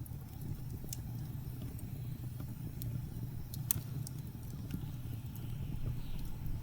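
Wood fire crackling with scattered small pops and one sharper pop about midway, over a steady low rumble of blizzard wind.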